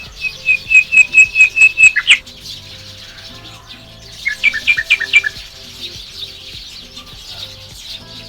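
Small songbirds in a tree: one bird gives a loud, rapid series of about nine clear repeated notes, then about two seconds later a shorter burst of about five notes, over the continuous chirping of many other small birds.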